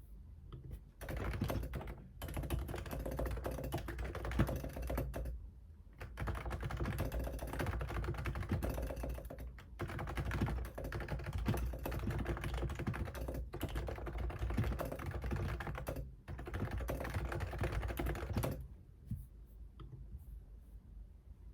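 Fast typing on a computer keyboard, in runs of a few seconds broken by brief pauses. It starts about a second in and stops near the end.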